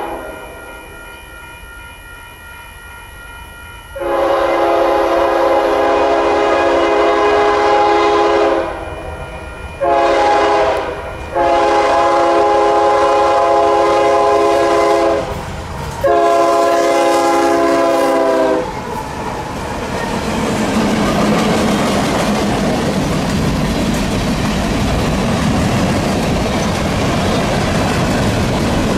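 Union Pacific freight locomotive's air horn sounding a chord, fainter at first and then four loud blasts, the second one short. After the horn stops the train passes close by, with a steady rumble and clatter of wheels on the rails.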